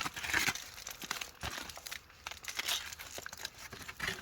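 Aluminium foil crinkling and rustling in irregular sharp crackles as a hot foil-wrapped parcel of cooked wraps is handled and opened.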